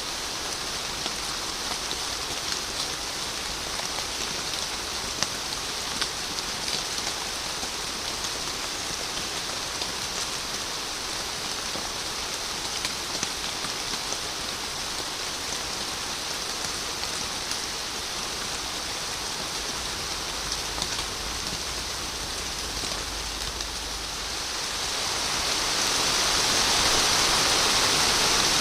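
Steady rain falling, with scattered individual drops ticking sharply on a surface. Near the end it swells to a louder, denser hiss.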